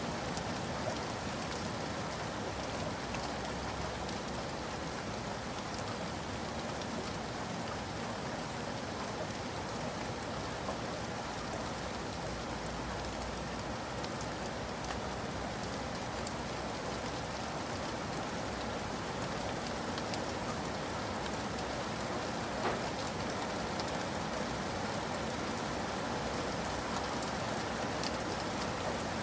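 Steady heavy rain falling on hard surfaces, a constant even hiss scattered with small drop clicks.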